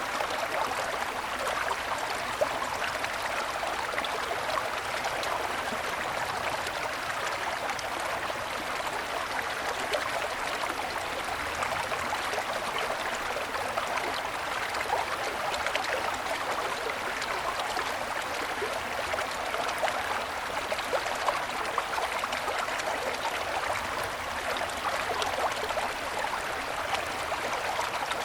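Mountain stream running over snow-covered stones: a steady rush of flowing water with small splashes and gurgles throughout.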